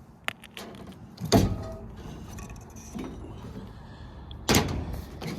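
Sharp metallic knocks and clinks from hands and tools on a rooftop HVAC unit's sheet-metal cabinet, four separate strikes with the second and last the loudest, over a low steady hum.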